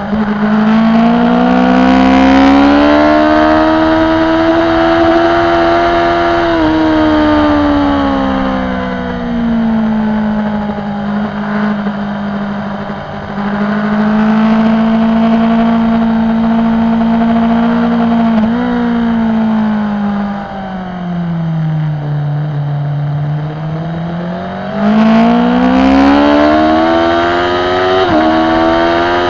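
BMW S1000RR's inline-four engine at racing speed, recorded onboard, its pitch rising and falling with the throttle through the corners. It drops lowest about three quarters of the way through, then climbs steeply under hard acceleration near the end, with a quick gear change just before the end.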